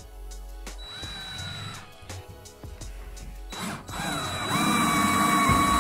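Cordless drill driving screws into OSB sheathing. A short whine comes about a second in, then a longer, louder run from about halfway, its pitch dipping as the screw bites and then holding steady.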